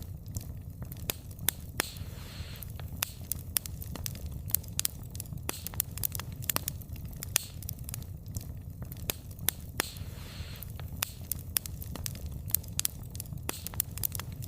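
Wood fire crackling, with frequent irregular sharp pops and snaps of burning logs over a steady low rumble of the flames. A brief hiss rises twice, about two seconds in and again about ten seconds in.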